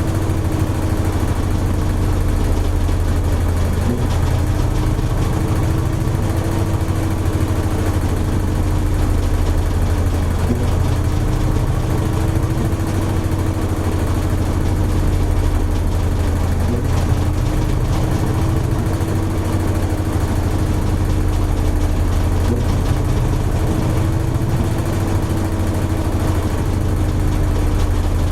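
Toshiba AW-42SEE4(S) fully automatic washing machine running with a steady, even low hum and a held mid tone that wavers slightly about every six seconds. The sound fits the drum spinning in the late spin-dry stage of the wash course.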